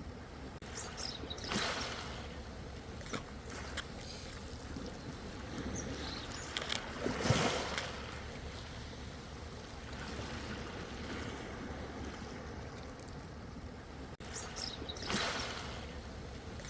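Ocean waves washing in over a steady wash of water, with three surges about six to eight seconds apart; the loudest comes near the middle.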